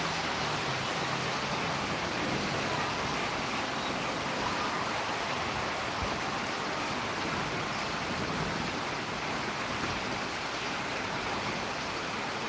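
Steady, even rushing of a storm's rain and wind, unchanging throughout.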